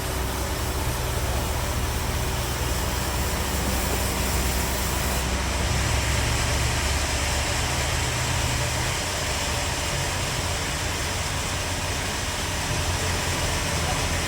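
Sawmill bandsaw machinery running steadily, with a continuous low hum under an even noise.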